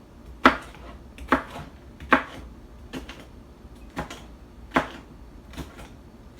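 A kitchen knife chopping vegetables on a cutting board: single sharp cuts at about one a second.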